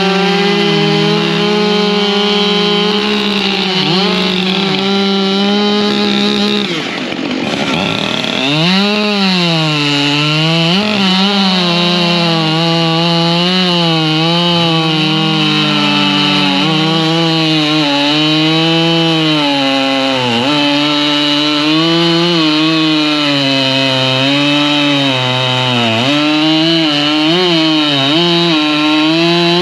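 Husqvarna 592 XP two-stroke chainsaw running at high revs, cutting firewood. About seven seconds in its note drops sharply and climbs back, then keeps rising and falling as the chain loads and frees in the wood.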